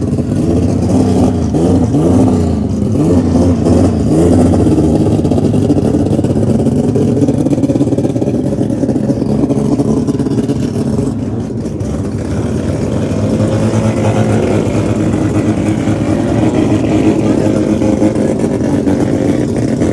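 Drag racing car engines revving in several quick rises and falls over the first few seconds, then running steadily.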